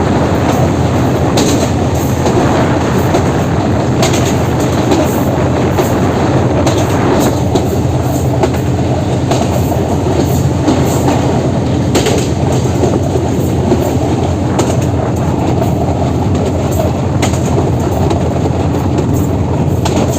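Train running along the track: a steady rumble of the wheels on the rails, broken by irregular clicks and knocks from rail joints, over the low steady hum of the diesel locomotive.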